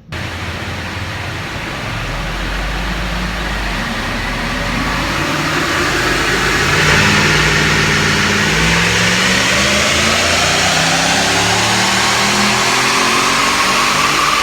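Nissan Y62 Patrol's 5.6-litre petrol V8 running under load on a chassis dyno through its Manta cat-back exhaust, revving up steadily with rising pitch. It grows louder over the first several seconds, then holds loud.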